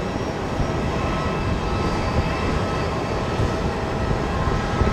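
Jet airliner engines running, a steady roar with a faint whine of turbine tones over a low rumble.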